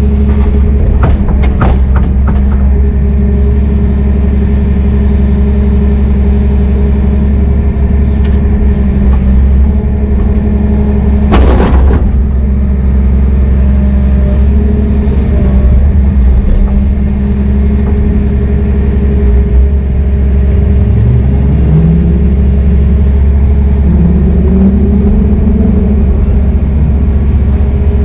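Heavy diesel engine running steadily with a deep rumble, revving up briefly twice in the second half. A few clicks come near the start, and a short, loud burst of noise comes about eleven seconds in.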